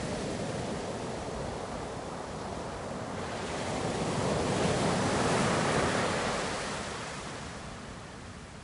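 Ocean waves breaking and washing in: a steady rush of surf that swells about three seconds in, peaks around five to six seconds, and dies back near the end.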